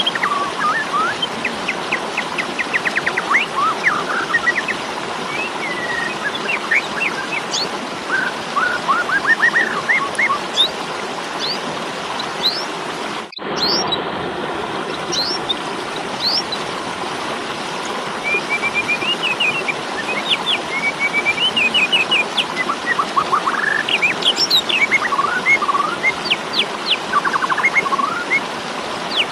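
Asian pied starling (jalak suren) giving its combative fighting calls: a run of short whistles, chirps and rapid rattling notes over a steady hiss, with a sudden brief break about halfway through.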